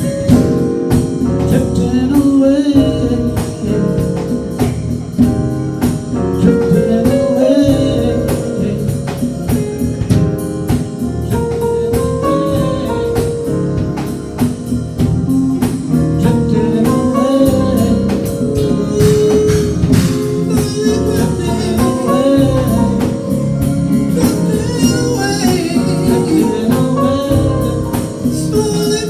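A band playing a song, with a singer over a steady drum beat.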